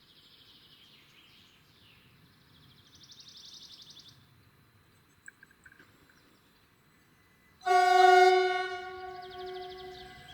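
Horn of a Mariazellerbahn narrow-gauge train sounding once, a single loud blast about three-quarters of the way in that fades over a couple of seconds. Before it, birds trill faintly in short bursts.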